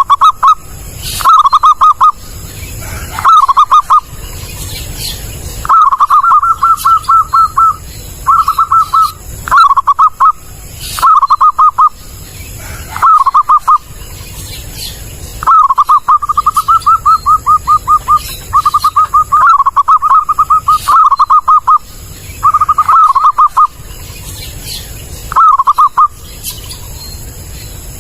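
Zebra dove (perkutut) calling loudly: short runs of rapid, staccato cooing notes repeated again and again, some runs longer than others. This is the clear, strong call used as a lure for trapping perkutut.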